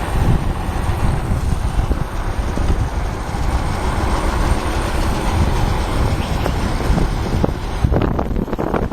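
Steady rumble of a moving motorbike with wind rushing over the microphone, and choppy wind buffeting about eight seconds in.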